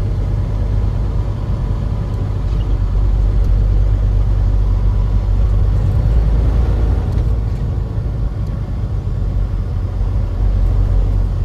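Truck driving along, a steady, heavy low rumble of engine and road noise.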